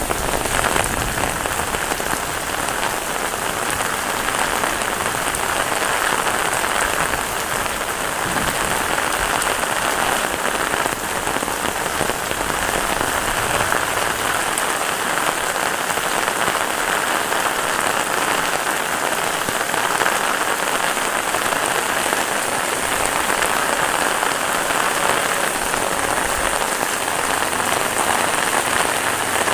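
Heavy rain falling steadily on surfaces: a dense, even hiss with no let-up.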